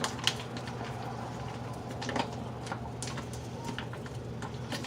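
Scattered light clicks and knocks of a coffee container and filter being handled, over a steady low hum.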